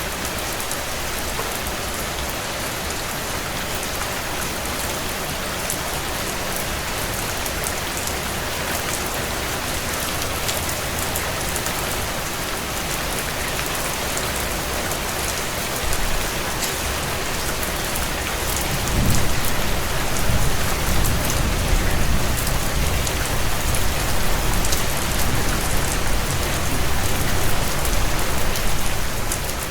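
Heavy rain drumming steadily on a tin roof, a dense patter of drops. About two-thirds of the way in a low rumble comes in and stays, making it louder.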